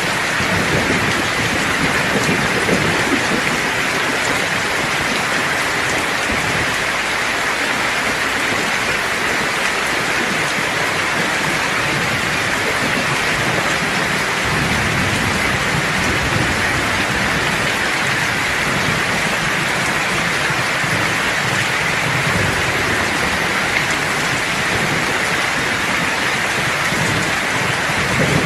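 Steady rain falling, with low rumbles of thunder swelling now and then beneath it.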